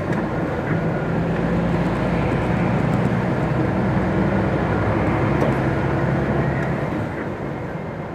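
MAN TGX articulated lorry's diesel engine running as the truck drives, with road noise. It gets quieter from about seven seconds in.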